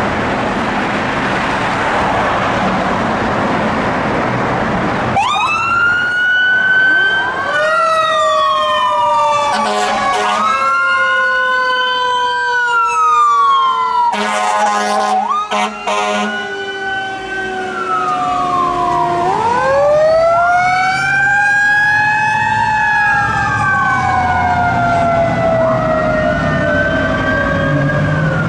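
Pierce fire engine pulling out with its sirens on. After about five seconds of engine rumble, wailing siren tones rise and fall, several overlapping at once, with two spells of fast pulsing yelp about ten and fifteen seconds in.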